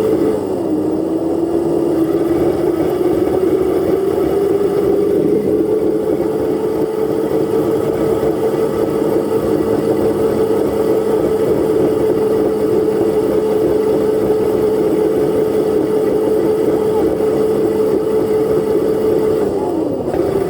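Dirt bike engine running under way at steady throttle. Its pitch dips about half a second in, climbs slowly back over several seconds, holds steady for a long stretch, then falls off near the end as the throttle eases.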